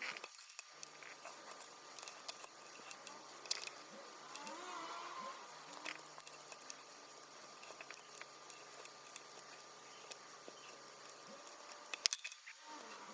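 Faint scattered clicks and ticks of small tools and parts handled on a Canon PowerShot S110 compact camera during repair, with a sharper cluster of clicks about twelve seconds in, over a steady low hum.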